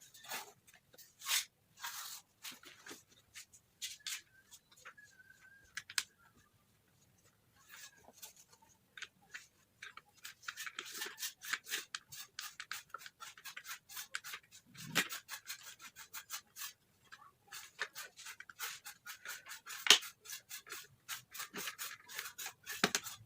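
Hands working on a plastic motorcycle helmet, fitting its parts into place: repeated short rubbing and scratching sounds, sparse at first and denser in the second half.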